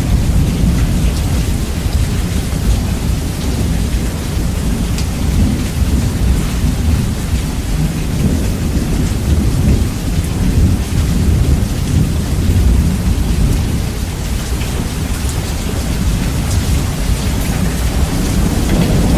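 Heavy rain with rolling thunder, the low rumble boosted heavily so it dominates the sound, while raindrop patter ticks on top.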